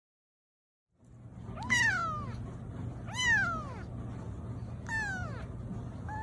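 Kitten meowing four times, about a second and a half apart, each high call rising and then falling in pitch, over a steady low hum.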